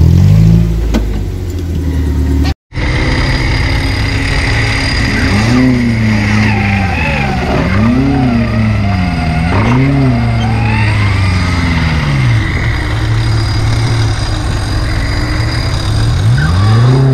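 Off-road 4x4's engine revving up and dropping back again and again as it works along a rutted dirt track, with a steadier stretch in between. The sound cuts out completely for an instant nearly three seconds in.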